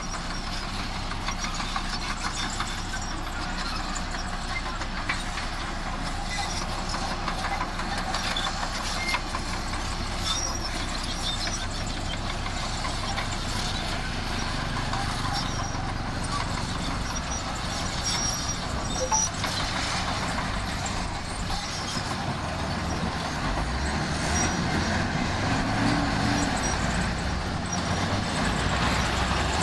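Heavy diesel earthmoving machinery running continuously as it works, its engine note shifting several times and rising briefly near the end.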